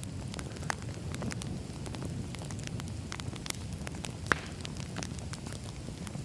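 Firewood burning with a steady low rumble and scattered crackles and pops, one sharp loud pop about four seconds in.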